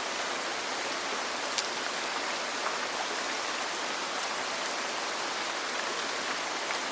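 Steady rain falling on a roof: an even, unbroken hiss, with a few faint clicks.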